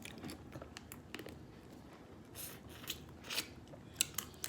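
Maryland blue crab shell being cracked and picked apart by hand: a scattered series of sharp cracks, snaps and crunches.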